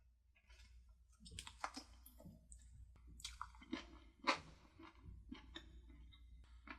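A person chewing food at close range: irregular moist, crunchy bursts begin about a second in, the loudest a little past the middle.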